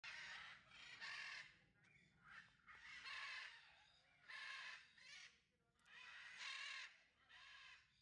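Harsh, raspy bird squawks, about seven in a row, each roughly half a second long and coming about once a second at uneven intervals.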